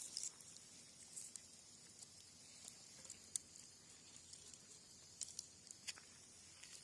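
Cherry-wood campfire crackling softly: scattered small pops and snaps over a faint steady hiss.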